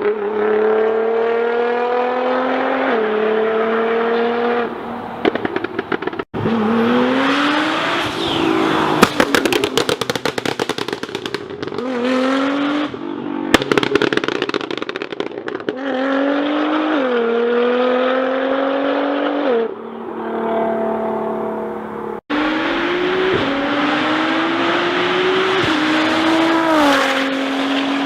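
Exhaust of a Nissan GT-R (R35) tuned to 650 PS, its 3.8-litre twin-turbo V6 pulling hard through several acceleration runs. The engine note rises and drops a step at each quick upshift, with loud crackling and popping from the exhaust between runs.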